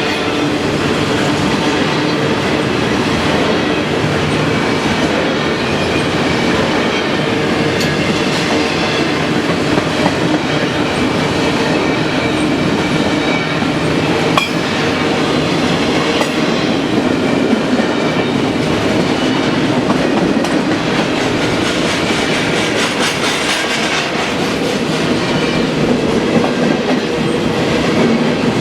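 BNSF double-stack intermodal train rolling past, a steady loud rumble of steel wheels on rail with faint squealing, and one sharp click about halfway through.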